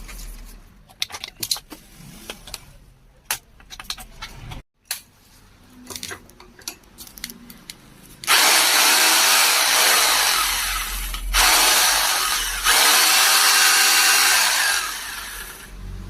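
Clicks and knocks of parts being handled, then an Ingco three-mode drill runs loudly for about eight seconds with a short break partway, its motor pitch shifting as it spins up: a test run of the drill with its chuck replaced.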